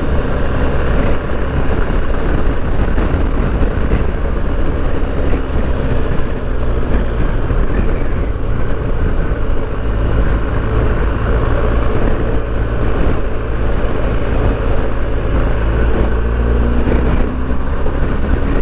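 BMW R1250GS boxer-twin engine running at road speed, with wind rushing over the microphone. The engine note rises near the end as the bike accelerates.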